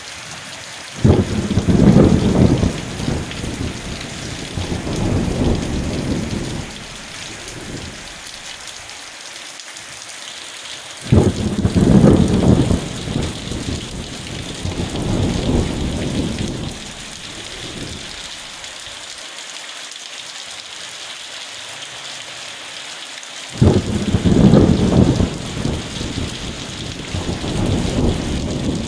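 Steady rain hissing, with three low rolls of thunder about ten seconds apart; each starts suddenly, then rumbles on with a second swell for about five seconds.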